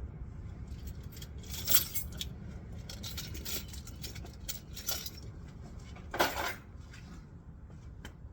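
Metal parts and tools clinking and clattering, a series of light clicks with two louder clanks about two seconds in and about six seconds in, over a steady low hum.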